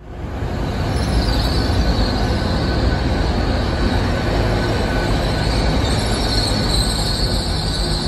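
Class 802 bi-mode multiple unit passing close by: a steady low rumble of wheels and running gear with a high-pitched note riding over it, which swells in over the first second and grows stronger near the end.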